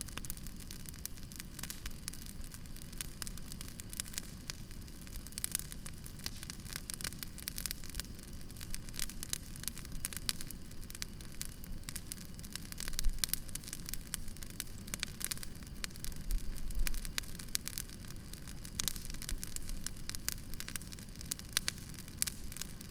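Wood campfire crackling, with frequent sharp pops and snaps over a steady low hiss of the burning fire; one louder pop about 13 seconds in.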